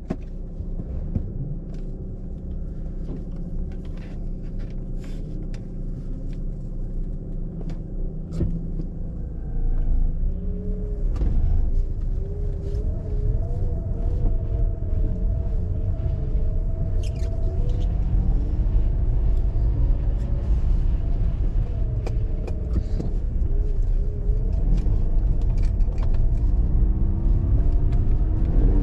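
Mazda RX-8's 192 hp Renesis twin-rotor rotary engine, running steadily at low revs at first, then from about ten seconds in louder as the car drives off, its revs rising and falling repeatedly. Scattered sharp clicks are heard over it.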